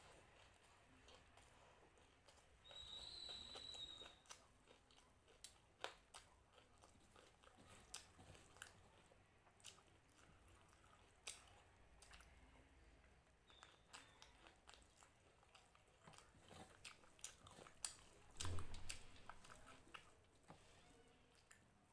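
A person chewing crunchy food close to the microphone, with many short, irregular crunches and mouth clicks.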